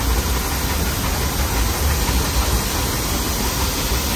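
Steady running noise of a moving Nilgiri Mountain Railway metre-gauge train: a continuous low rumble under an even hiss, heard through an open coach window.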